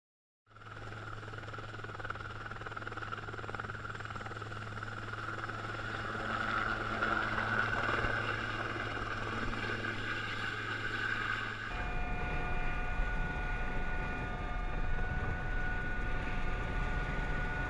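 Steady aircraft engine drone, with a constant low hum under a rushing noise. About twelve seconds in it changes abruptly to a different steady engine hum with several distinct whining tones and a heavier low rumble.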